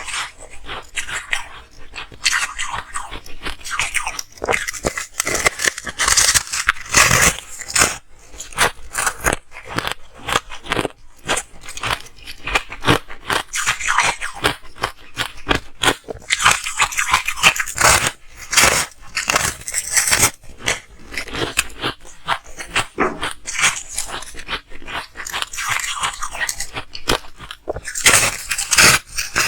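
Ice being bitten and chewed close to the microphone: a continuous run of sharp, crackling crunches with no real pauses.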